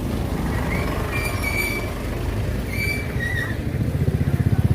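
Road traffic with motorbike engines: a steady low engine rumble with a few short high squeaks over it. A pulsing motorcycle engine grows louder near the end.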